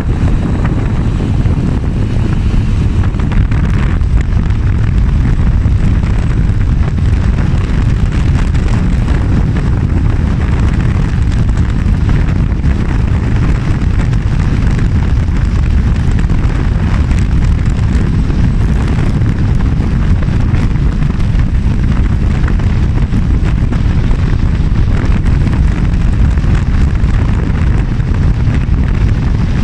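Heavy wind buffeting the microphone on a moving motorbike, a loud, steady low rumble with the bike's engine and road noise underneath.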